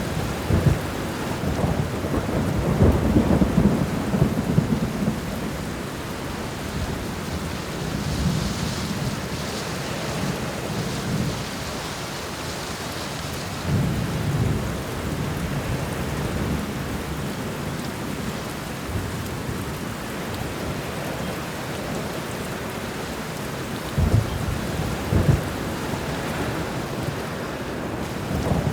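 Steady rain falling, with thunder rumbling in low swells several times: a long roll over the first few seconds, more about a third of the way in, and again near the end.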